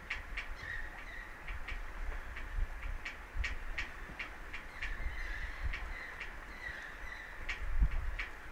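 Birds calling in many short, sharp notes at irregular intervals over a steady high chatter, with low rumbling bumps of wind on the microphone, the strongest near the end.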